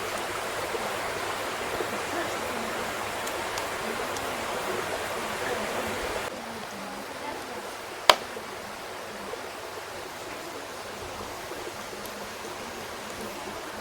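Wood fire burning with a steady hissing rush that drops to a quieter level about six seconds in. One sharp, loud crackle pops about eight seconds in, with a few faint ticks around it.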